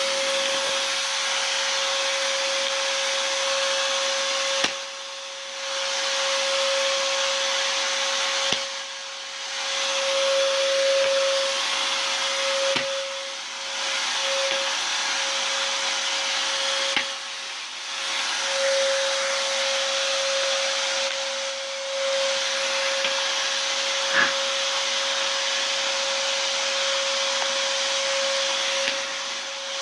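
Vacuum cleaner running steadily, a rushing hiss with a steady whine. Every four seconds or so the sound dips briefly, with sharp knocks.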